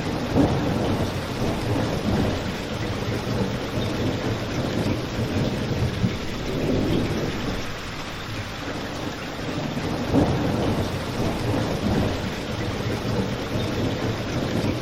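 Steady rain with a crackling fireplace. A low rumble swells and fades a few times, and a few sharp crackles stand out.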